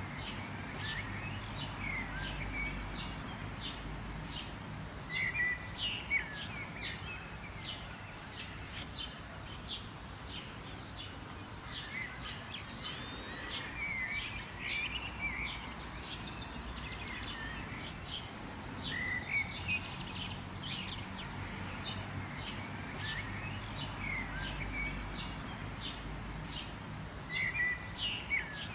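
Several small birds chirping and twittering, quick short notes over and over, with a few brief whistled phrases, over a steady low background rumble of outdoor ambience.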